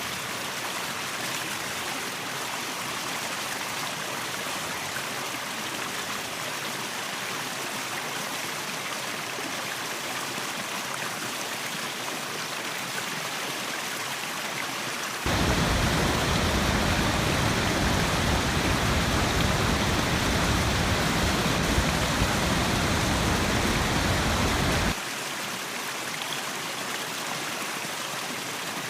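Waterfall water rushing steadily. About halfway through it suddenly becomes louder and fuller with a deep rumble for about ten seconds, then drops back just as suddenly.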